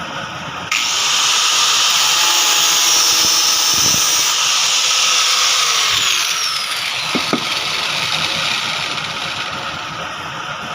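A handheld power tool's motor starts suddenly, runs at a high whine for about five seconds, then is switched off and winds down.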